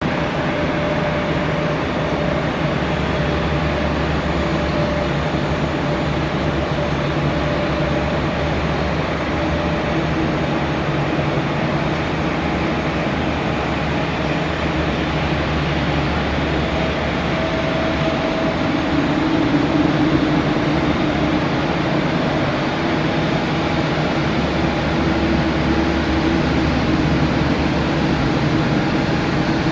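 Jet aircraft engines running, a steady loud rumble with faint held tones, swelling a little about two-thirds of the way in.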